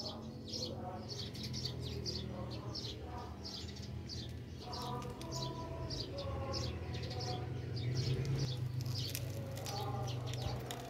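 Small birds chirping: short, high chirps repeating irregularly, a few each second, over a steady low hum.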